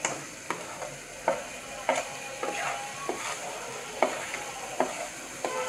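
Onion, tomato and mushroom masala sizzling steadily in a pressure cooker, with light clicks and scrapes every half-second or so as a plastic spoon scrapes powdered spices off a plastic plate into the pot.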